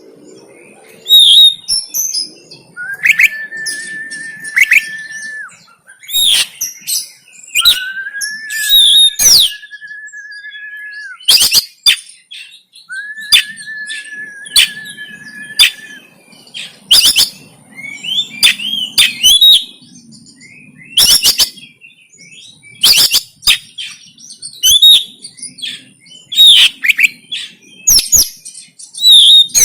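Oriental magpie-robin (kacer) singing in the excited 'konslet' fighting style. Three long level whistles, each held about two seconds, come in the first half. Between and after them, and through the second half, are sharp clicks and quick chirping phrases.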